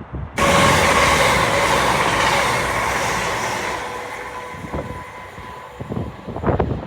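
A train passing through the station, a loud rush of wheel and air noise with a faint steady whine, starting abruptly and fading away steadily as it recedes.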